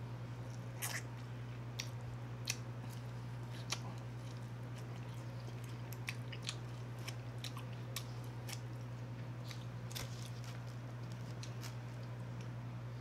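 Close-miked mouth sounds of a person eating Cajun corn on the cob: scattered crunchy bites, wet chewing and finger-licking smacks. A steady low hum lies under it.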